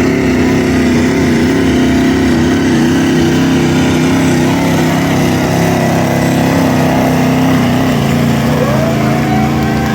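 Pulling truck or tractor engine running hard at a steady pitch under heavy load while dragging the weight-transfer sled, its pitch wavering slightly and easing down a little near the end.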